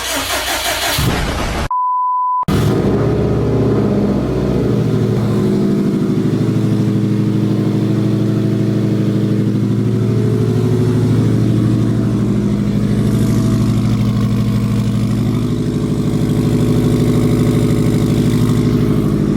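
A car engine cranked by its starter for a second or two, cut off by a short censor bleep, then firing and running unevenly for a couple of seconds before settling into a steady idle. It is a cold start on an engine that has not been run in a while.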